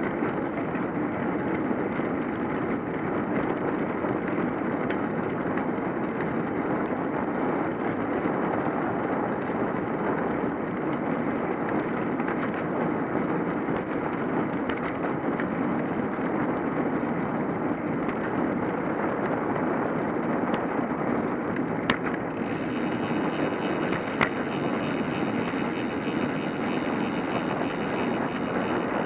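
Steady riding noise from a cyclocross bike on the road: tyres rolling on pavement and wind across the microphone. Two sharp clicks come near the end.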